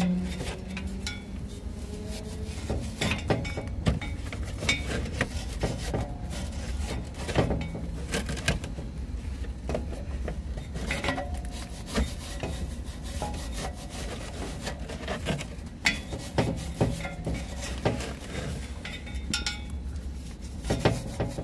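Metal wire brush scrubbing rust and old gasket remnants off a car's exhaust flange, in quick, irregular scraping strokes of metal bristles on metal.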